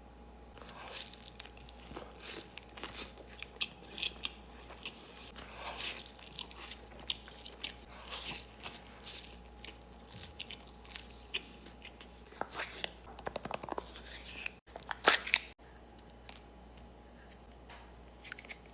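Close-miked mukbang eating: someone bites and chews Papa John's pan pizza, with a steady run of small crunches and wet chewing clicks. The loudest crunchy bite comes about fifteen seconds in.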